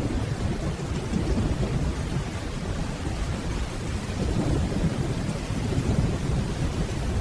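Steady rainfall with a continuous low rumble of distant thunder.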